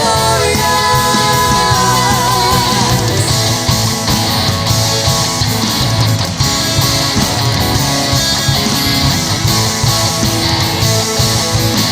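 Worship band playing a loud rock-style song with electric guitar and a steady beat; a singer holds a wavering note for the first few seconds.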